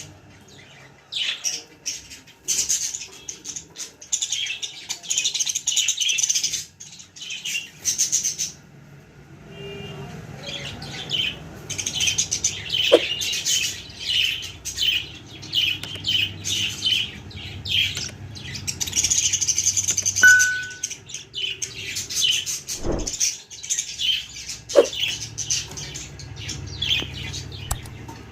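Budgies chirping and chattering in quick, dense runs of high chirps, with a brief pause about a third of the way in. A few sharp knocks sound among the chirps.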